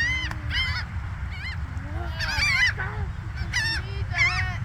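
Seagulls squawking: a string of short, repeated calls, several in quick succession, over a steady low rumble.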